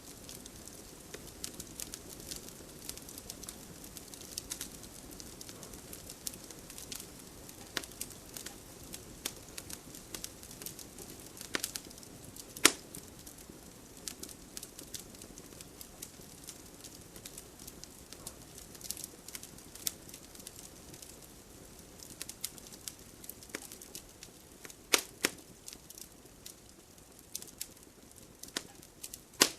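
Wood fire burning in a home fireplace, crackling steadily under a low hiss, with irregular sharp pops, a few of them loud.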